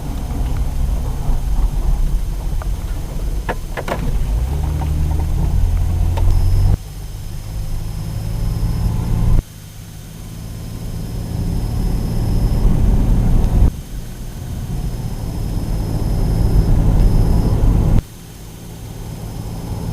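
Car driving on a highway, engine hum and road noise heard from inside the cabin. The sound drops suddenly several times, then slowly swells again.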